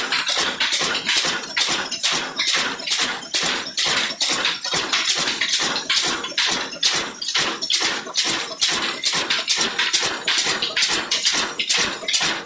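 Old Ruston Hornsby diesel engine running steadily, with an even beat of about three chuffs a second.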